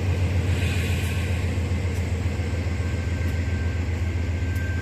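Diesel locomotive engines of an arriving freight train, a steady low rumble.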